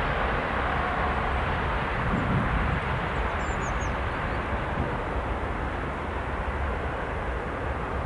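Steady rumble of a freight train of tank cars rolling along the tracks, growing slightly quieter. A bird chirps a few times about three and a half seconds in.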